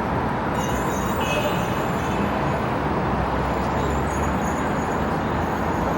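Steady city road traffic noise, with a deeper rumble from a passing vehicle for the first few seconds.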